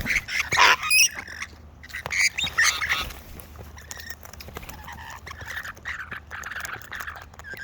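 Wild birds squawking: several loud, harsh calls in the first three seconds, then quieter, continuous chatter.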